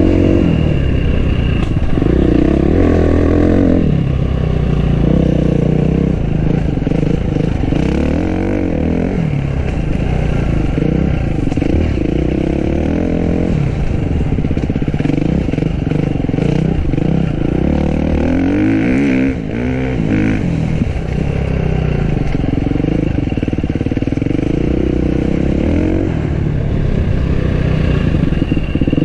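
Enduro dirt bike engine running hard, its pitch climbing and dropping over and over as the rider accelerates and backs off.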